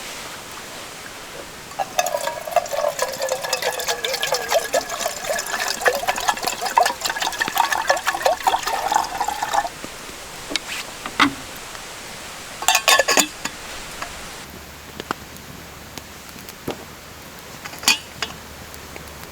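Liquid, most likely water, poured steadily into a container for about eight seconds, starting about two seconds in. A few short clinks and knocks follow later.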